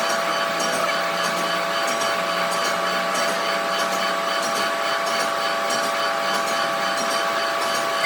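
A machine running steadily, with a constant whine of a few steady tones over an even hiss.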